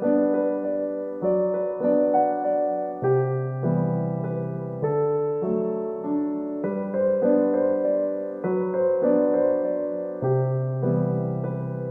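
Background music: a gentle, slow electric-piano or keyboard melody with held chords, each note struck and slowly fading.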